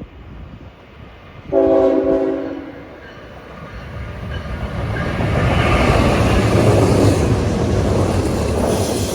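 Diesel freight locomotive sounds one horn blast, a chord of several tones lasting about a second and a half. After that, the rumble of the train on the rails builds up and stays loud as the train comes by.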